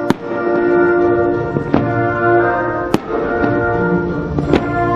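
Slow music with sustained chords from the show's sound system, over which firework shells burst with about four sharp bangs spread through the few seconds.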